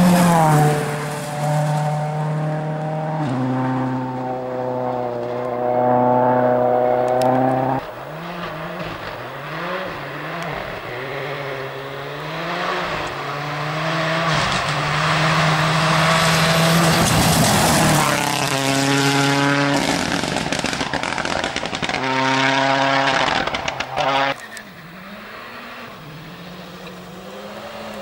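Rally car engine revving hard on a stage, its pitch stepping through gear changes and rising and falling with throttle. There is a harsher, noisier stretch about halfway through. The sound drops abruptly to a quieter, lower engine note about four seconds before the end.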